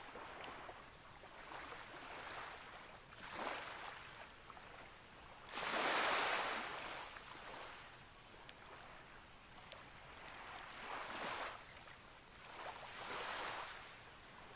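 Small waves washing ashore on a beach, a series of swells of surf hiss that rise and fall away, the biggest about six seconds in.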